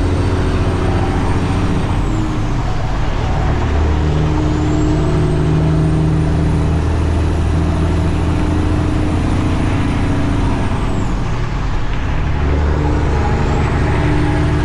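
Semi truck's diesel engine and road noise from inside the cab while driving, the engine note dropping about two seconds in and picking up again about four seconds in, then dropping and picking up once more near the end. A faint high whine falls and rises along with it.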